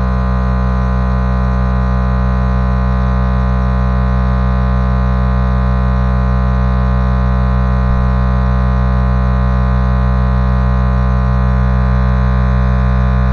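Loud, steady electrical buzz: mains hum with many overtones, unchanging throughout.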